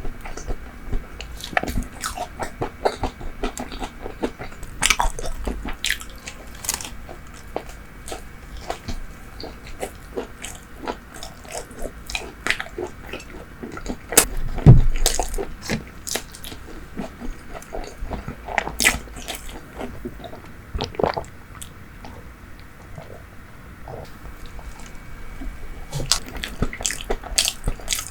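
Close-miked eating sounds: bites and chewing with wet mouth clicks and light crunches, and one heavy low thump about halfway through.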